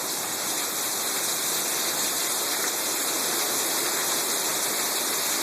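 Heavy thunderstorm downpour: rain pouring down steadily.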